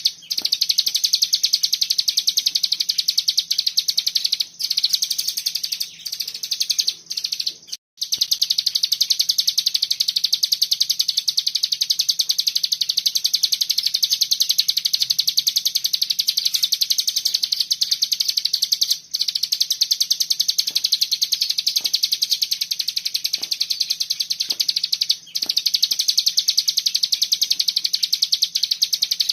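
A cigun songbird singing a long, tight 'bren' trill: a high, very fast buzzing run of pulses like a cicada, broken only by a few brief pauses.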